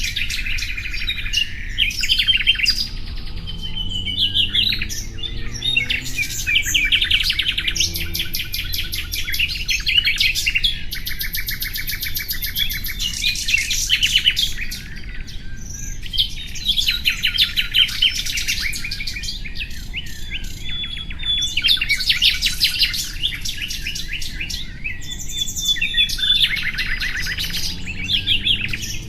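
A songbird singing continuously: fast trills and chirping phrases, one after another with brief gaps.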